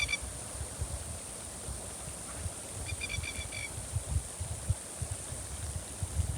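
Gusty wind buffeting the microphone, with a bird's short, rapid chattering call twice: once at the very start and again about three seconds in.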